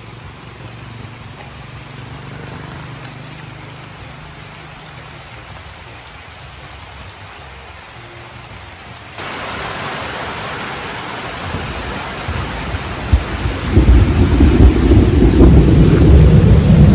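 Rain falling, which turns to a heavy downpour about nine seconds in, after a quieter stretch. Loud thunder rumbles through the last few seconds.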